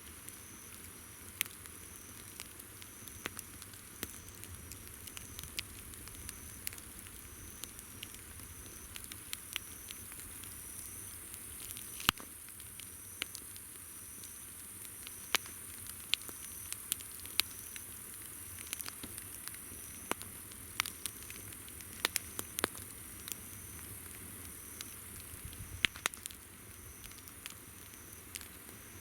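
Wood campfire crackling, with sharp pops at irregular intervals, the loudest about twelve seconds in and near the end. Behind it insects call: a steady high trill and a regular chirp repeating somewhat more than once a second.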